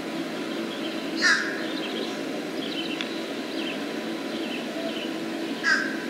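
A bird gives two loud, harsh calls, about a second in and again near the end, over the fainter chirps of other birds and a steady low hum.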